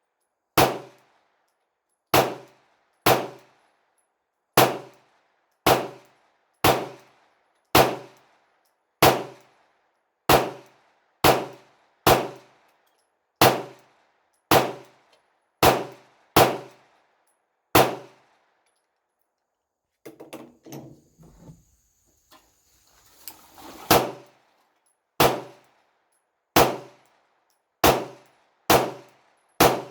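9mm pistol firing 115-grain FMJ rounds in slow, steady fire, about one shot a second, with a short echo after each. About two thirds of the way through the firing stops for a few seconds of small metallic clatter, then the shots resume.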